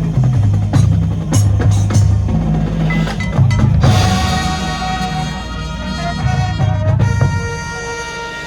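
High school marching band playing its field show: drums strike over a stepping low bass line, then the band comes in with a held full chord about four seconds in.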